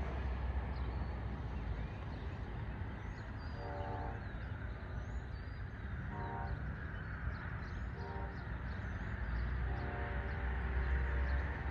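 Diesel locomotive horn on a passing passenger train sounding three short blasts followed by a longer one near the end, over the steady low rumble of the train. Faint bird chirps in the background.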